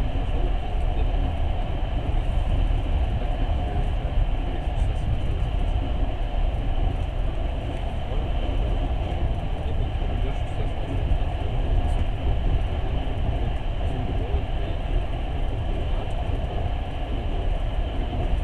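Steady running rumble of a passenger train, heard from inside the carriage.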